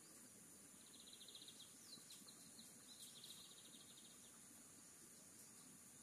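Faint songbird singing: a rapid trill, a short downward-sliding note, then a longer trill, over a steady high-pitched insect drone.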